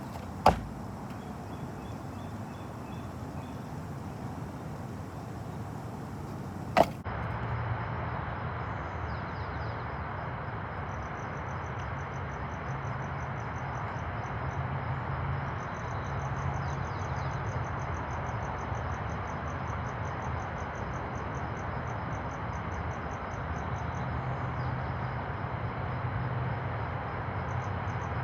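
Steady outdoor background noise with a fast, high-pitched chirping pattern. Two sharp clicks break it, the second about seven seconds in, after which the background grows louder.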